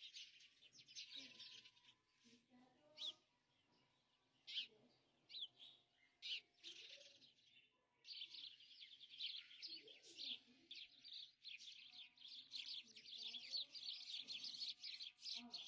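A flock of small birds chirping, many quick overlapping chirps. They come only now and then in the first half, then form a dense chorus from about halfway on.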